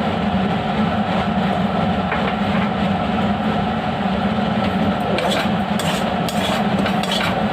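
Steady, loud rumbling hum in the kitchen while the filling cooks, with a few sharp clinks of a metal utensil against the pan from about five seconds in.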